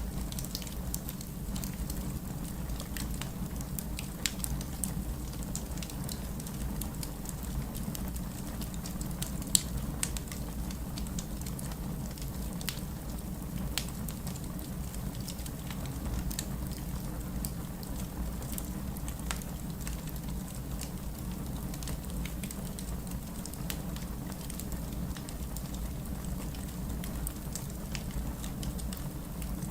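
Wood fire crackling with frequent small pops and one sharper pop about ten seconds in, over a steady hiss and low rumble of heavy rain.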